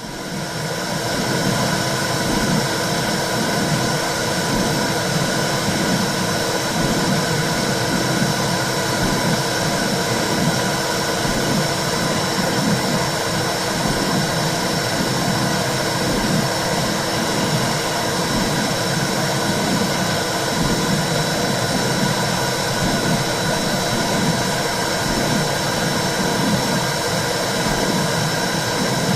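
Simulated womb sound: a steady whooshing rush with a low, rhythmic heartbeat-like pulse about once a second, fading in at the start.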